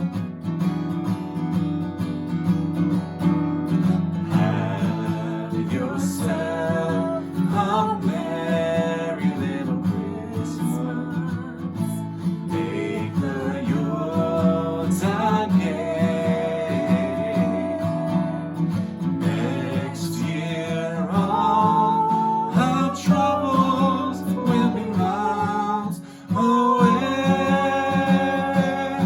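A song sung to acoustic guitar: strummed chords under a singing voice with a wavering, held melody.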